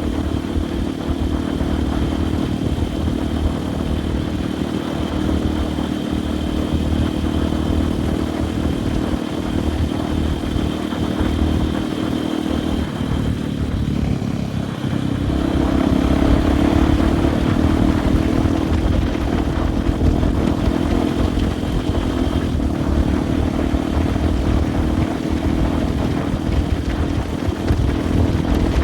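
Dirt bike's single-cylinder engine running under way on a trail, holding a steady pull. About 13 seconds in it eases off, then it pulls harder again from about 15 seconds.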